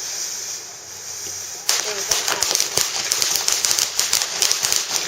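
A consumer firework going off: under two seconds in it breaks into a rapid, dense crackle of sharp pops that keeps going.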